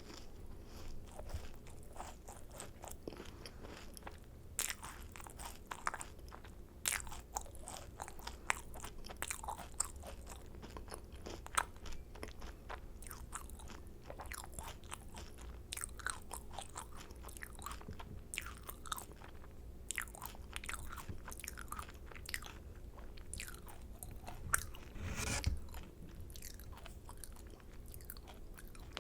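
Close-miked chewing of macarons: many small crunches and crackles as the shells break down between the teeth, with one louder crunch near the end.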